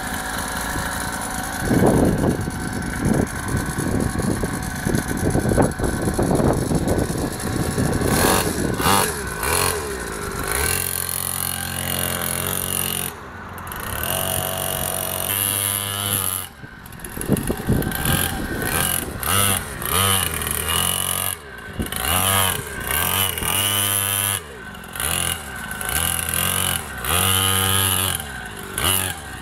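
Small dirt bike engine revving up and falling back again and again as the throttle is opened and closed, with short drops between the pulls. For the first several seconds the engine is buried under rough, rumbling noise.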